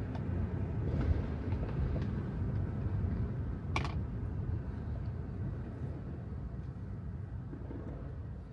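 Tesla Model 3 driving on wet pavement: a low, steady rumble of tyre and road noise with no engine sound, fading gradually. A single sharp click about four seconds in.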